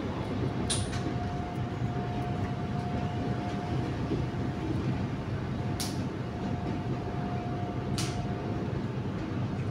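Inside an electric commuter train running along the line, with a steady rumble of wheels on rail. A steady whining tone comes and goes twice, and there are three sharp clacks.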